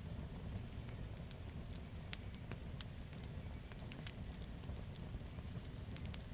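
Campfire crackling: burning wood gives off many sharp, irregular pops and snaps over a steady low noise from the flames.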